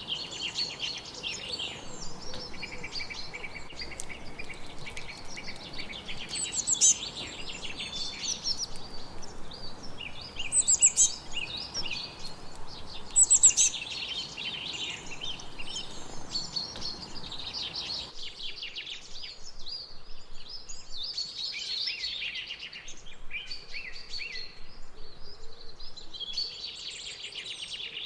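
Several songbirds singing and chirping continuously, with repeated fast high trills, over a soft steady background hiss that cuts out abruptly about two-thirds of the way through.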